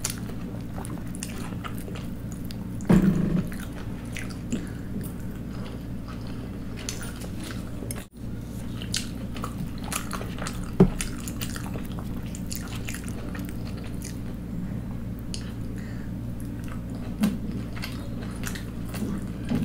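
Close-miked eating: chewing and wet mouth clicks as pieces of poori dipped in curry are eaten, with a few louder bites about three and eleven seconds in. A steady low hum runs underneath.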